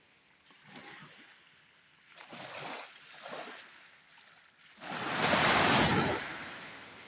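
Sea waves washing onto the shore: a few small surges, then a much louder wave breaking about five seconds in and slowly fading away.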